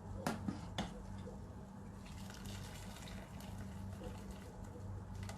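Pot of water with parboiling basmati rice still bubbling gently just after the gas flame is turned off, with two light clicks near the start and a steady low hum underneath.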